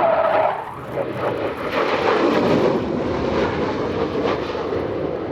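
Panavia Tornado jet passing in a display flypast, its two RB199 turbofans giving a loud, steady rushing noise that dips briefly about a second in and then swells again.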